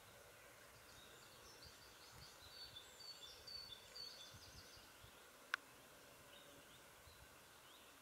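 Faint high-pitched bird chirps: a quick scatter of short notes through the first half, then one sharp click a little past the middle, over a quiet outdoor hush.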